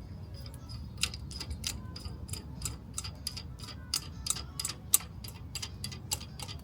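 Ratchet wrench clicking in quick, uneven strokes while it turns a harmonic balancer installer tool, pressing the balancer onto the engine's crankshaft snout.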